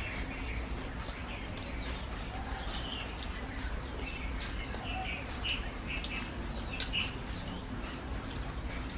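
Small birds chirping on and off, short high chirps repeated throughout, over a steady low hum with a few light clicks.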